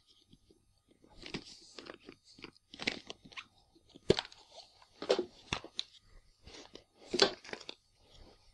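Packaging being rummaged through in an opened action-camera box as accessories are pulled out: irregular rustles and crackles, with a few sharp clicks.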